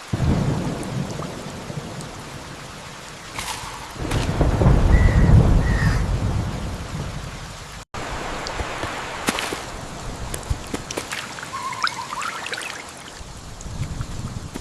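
Rain falling steadily with deep rolls of thunder, the loudest rumble about four to six seconds in. The sound drops out abruptly about eight seconds in, then the rain carries on.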